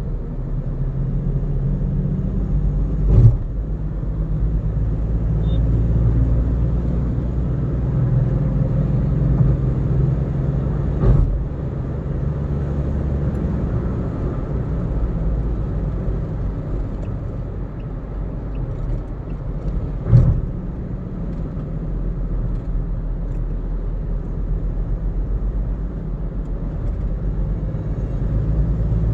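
Car cruising on a highway, a steady low rumble of road and engine noise, with three short sharp thumps about eight to nine seconds apart.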